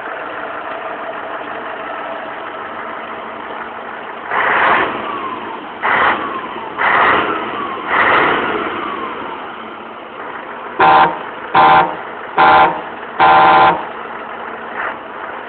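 Truck engine running steadily, then two series of horn blasts: four blasts about a third of the way in, then four short, loud air-horn blasts in quick succession near the end, the last held longest.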